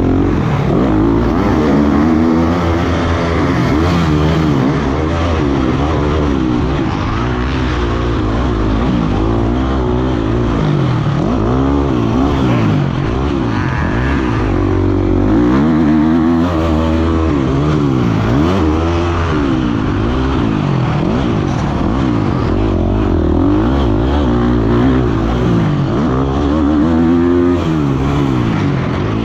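Motocross bike's engine revving hard and falling off again and again, its pitch climbing and dropping every second or two as the rider works the throttle and shifts.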